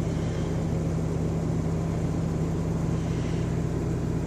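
Toyota engine idling steadily just after a cold start in bitter cold (about 3 degrees), having been reluctant to start.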